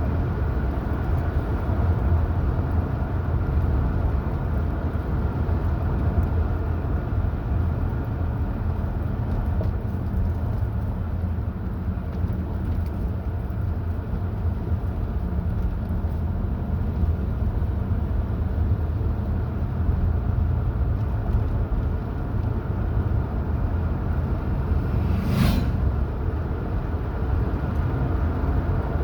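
Car driving on a mountain highway: a steady low rumble of engine and road noise. A single brief sharp click sounds a few seconds before the end.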